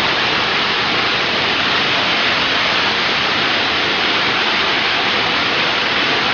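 Waterfall: water rushing and splashing in a loud, steady roar of white noise.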